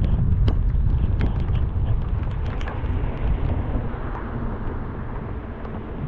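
A car driving through heavy rain: a low rumble of wind and road noise with scattered sharp taps of raindrops striking close to the microphone. The rumble slowly eases off over the last few seconds.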